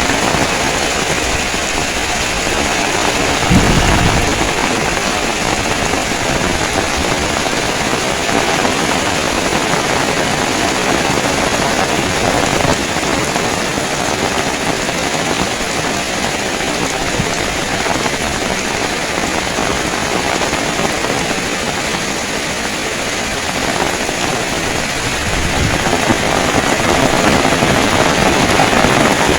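Heavy rain falling steadily, a dense even hiss, with a brief low rumble about three and a half seconds in. The rain swells slightly near the end.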